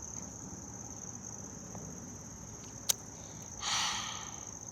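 Steady high-pitched chorus of insects, likely crickets, trilling continuously. A single sharp click comes about three seconds in, and a brief rustle follows near four seconds.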